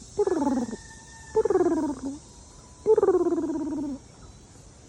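Turkey hen giving her soft purring call to newly hatched poults: three trilling calls, each slightly falling in pitch and lasting from half a second to about a second, with short pauses between.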